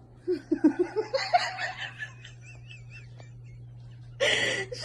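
A person laughing in a quick run of short bursts, then a loud breathy burst near the end as the laughing picks up again. A steady low hum underneath.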